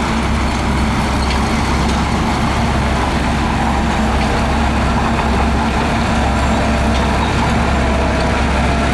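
Heavy diesel engine of earthmoving equipment running steadily and loudly, with a constant low drone.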